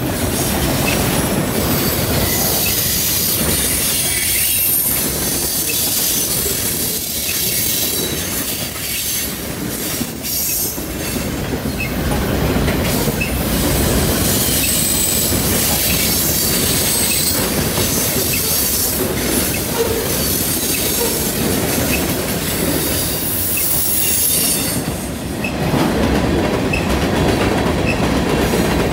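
Freight cars of a passing train rolling by close at hand: steady wheel-on-rail noise with clicking of wheels over rail joints and thin high squealing tones at times.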